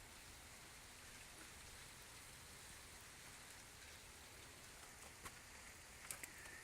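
Pouring rain falling steadily, heard faintly, with a few sharp clicks near the end.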